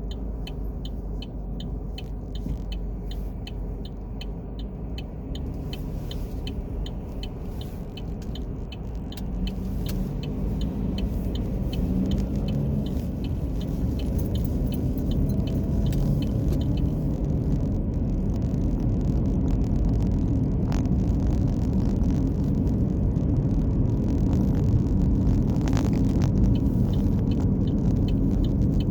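A car driving, with a steady low rumble of engine and road noise that grows louder about a third of the way in. A faint, even ticking repeats several times a second over the rumble.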